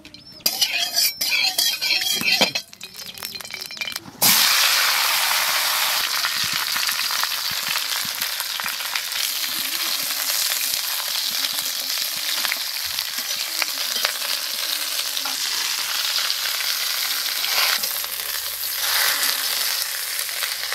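Whole slit brinjals (eggplants) frying in hot mustard oil in a kadai. A burst of crackling and clatter in the first two seconds, then a loud steady sizzle that starts suddenly about four seconds in, with a ladle stirring and turning the brinjals in the pan.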